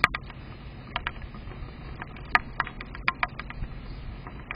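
Rain through a Blink outdoor security camera's microphone: a steady low hiss with irregular sharp ticks of drops landing close by, a few a second, the loudest one right at the start and another about halfway.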